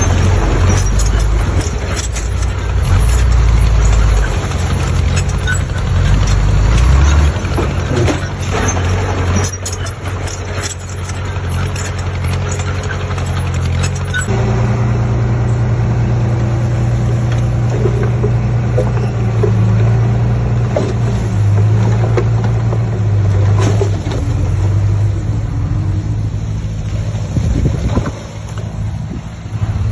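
Heavy construction machinery running: a diesel engine working under load, with knocks and clatter in the first half. About halfway through, the engine note changes abruptly to a steadier, higher running pitch.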